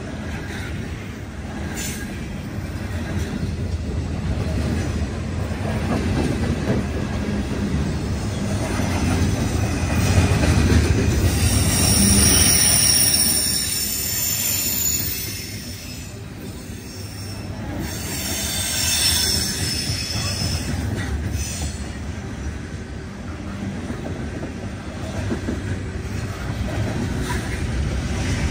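Norfolk Southern coal train's steel-wheeled coal cars rolling past close by: a steady rumble of wheels on rail, with high-pitched wheel squeal rising around the middle and again a few seconds later.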